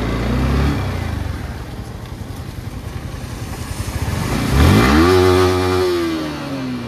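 Motorcycle engine running at low revs, then revved sharply about four and a half seconds in, held briefly, and the revs slowly falling away.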